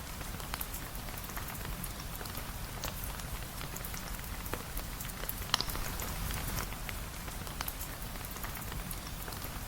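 Steady rain falling, with scattered sharp ticks throughout and one louder tick about five and a half seconds in.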